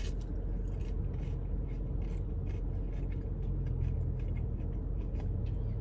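Mouth-close chewing of a crisp, flaky deep-fried pie crust: faint, irregular crunching clicks over a steady low hum.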